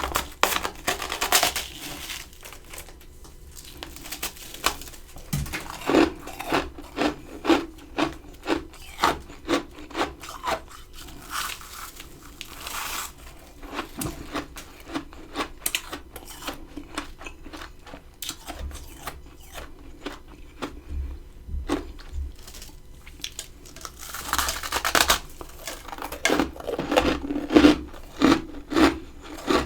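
A person biting into and chewing humidifier freezer frost. It crunches in steady chewing strokes of about one and a half to two a second, with louder, longer crunching bites near the start, about twelve seconds in and about twenty-four seconds in.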